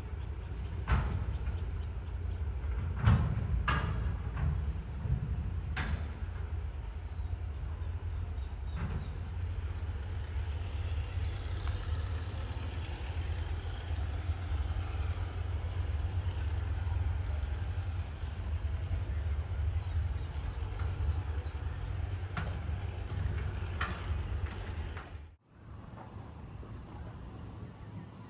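Train passing close by: a steady low rumble with occasional sharp clanks. About 25 seconds in it cuts off suddenly to a quieter background with insects chirping.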